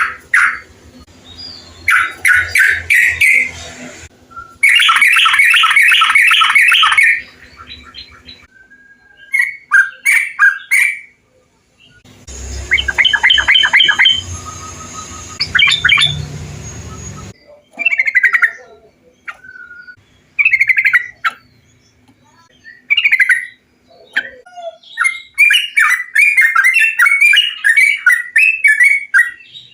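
Yellow-vented bulbuls (trucukan) singing: loud, bubbly chattering phrases of quick notes, repeated with short pauses. Several recordings are spliced one after another, making a lure recording meant to set caged bulbuls singing.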